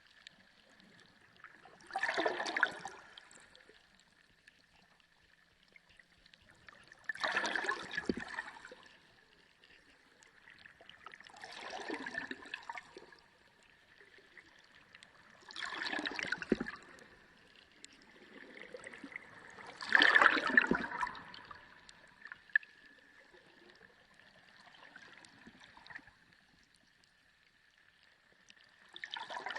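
Sea water surging and gurgling in a slow rhythm, a swell about every four to five seconds with quiet gaps between, the biggest about two-thirds of the way in. A faint steady high tone runs beneath it.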